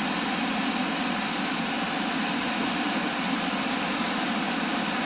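Steady rushing noise of a waterfall, an unbroken wash of falling water.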